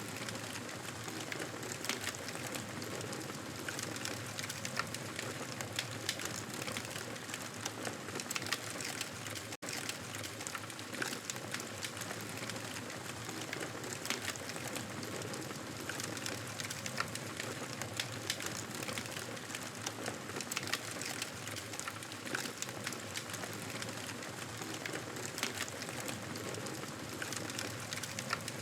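Wood fire crackling, with a steady hiss and frequent sharp pops and snaps; the sound drops out for an instant about ten seconds in.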